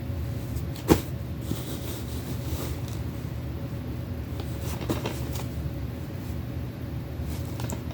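Handling of a plastic DVD case and its packaging: a sharp click about a second in and a softer one near five seconds, with faint rustling, over a steady low hum.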